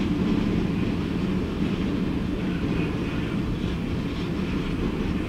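Pan Am Railways intermodal freight train, highway trailers on flatcars, rolling past: a steady low rumble of steel wheels on rail.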